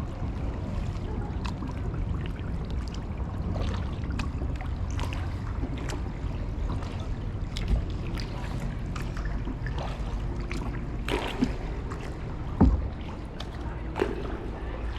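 Kayak paddling: water splashing and dripping from the paddle blades in short crisp ticks, over a steady low rumble of wind on the mic. A louder knock comes about two-thirds of the way through.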